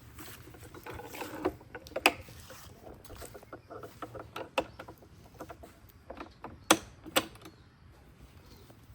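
A series of irregular knocks and clicks, the loudest sharp knocks about two seconds in and again near seven seconds.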